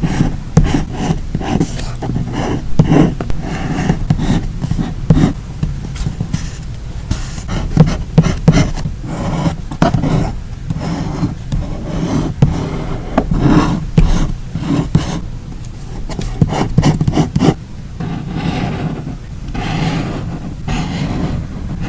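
Close-up sounds of hands working paper and stickers on a journal page: an irregular run of taps, rubs and scrapes.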